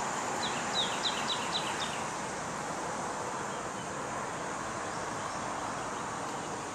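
A songbird gives a quick run of about six short, high notes, each falling in pitch, over steady outdoor background hiss.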